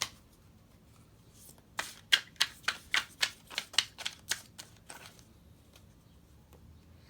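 A tarot deck being shuffled by hand: a quick run of about a dozen sharp card snaps over roughly three seconds, starting about two seconds in.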